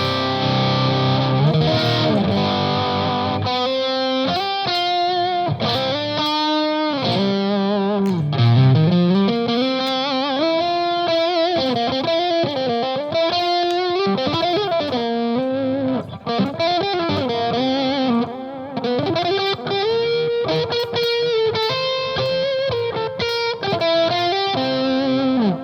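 Electric guitar played through an EarthQuaker Devices Palisades overdrive pedal set to Gain A with the boost on: a driven, overdriven tone, opening on a held chord and moving into a lead line with bent notes.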